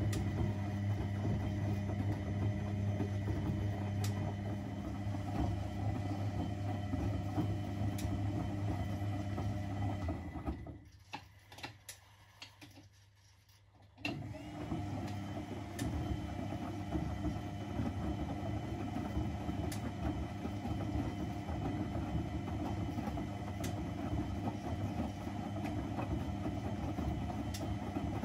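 Privileg 3001 S washing machine running on its three-speed gear motor, a steady motor hum as the drum turns. About ten seconds in the motor stops for roughly three seconds with a few clicks, then starts again. Faint sharp ticks come about every four seconds.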